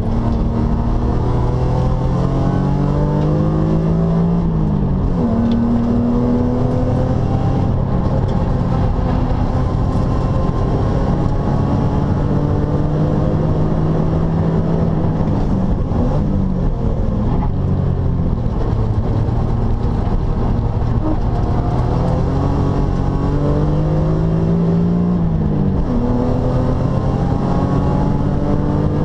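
1995 BMW M3's straight-six engine at full throttle, heard inside the cabin, its note climbing steadily and dropping sharply about three times as the gears change, over steady road and tyre noise.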